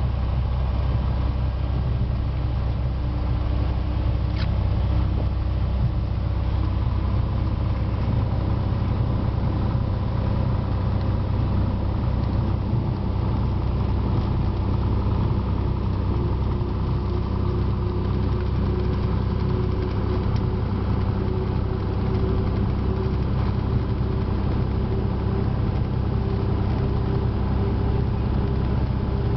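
Cessna 182T's six-cylinder Lycoming piston engine and propeller running steadily, heard as a low drone inside the cockpit. The engine note creeps up slightly in pitch in the second half.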